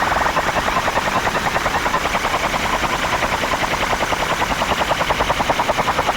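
A competition horn effect played loud through a DJ sound system: a rapid, machine-gun-like pulsing tone repeating several times a second.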